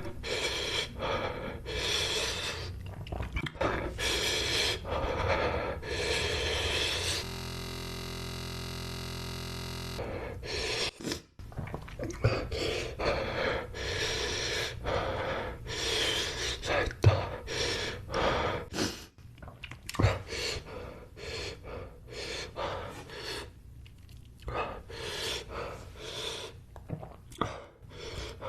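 Gasping and panting, hard breaths out through the mouth, typical of reacting to the burn of an extremely hot chip. About seven seconds in, a steady buzzing tone cuts in for about three seconds.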